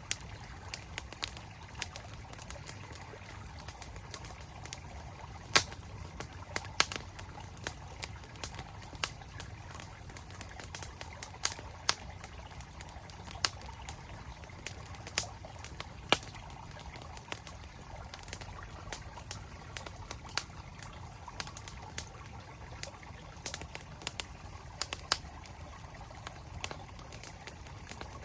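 Campfire crackling with irregular sharp pops from the burning wood, a few much louder than the rest, over the steady rush of a flowing mountain stream.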